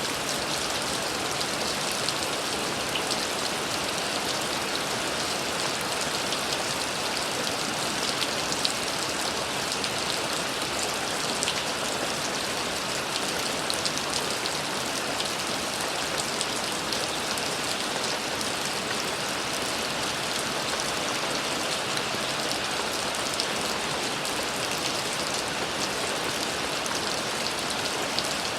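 Steady rain falling, with many fine drop patters on surfaces over an even hiss.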